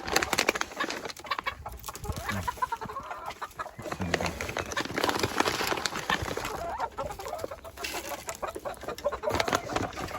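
Chickens clucking, with many short clicks and taps in among the calls.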